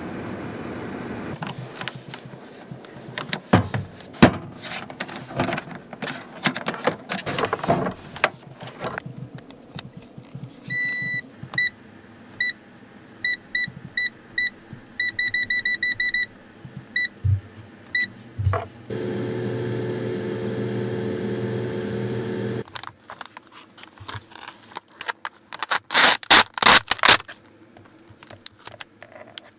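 Kitchen things being handled and knocked about. Then comes a string of short electronic beeps from a digital appliance's control panel as its buttons are pressed, and a steady motor hum for about four seconds. More clattering follows, loudest near the end.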